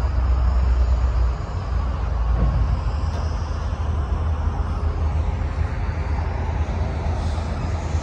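Union Pacific freight train of autorack cars rolling past at close range: a steady noise of steel wheels on the rails, heavy in the low end.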